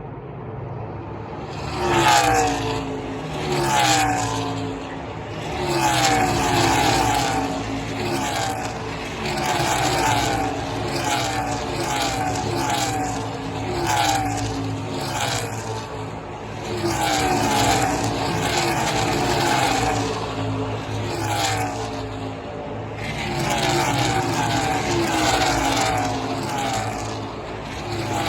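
NASCAR Xfinity stock cars' V8 engines passing one after another at racing speed, each engine note dropping in pitch as the car goes by. The field starts coming through about two seconds in, with brief lulls between bunches of cars.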